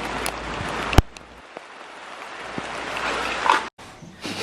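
Steady rain falling outdoors, with one sharp knock about a second in.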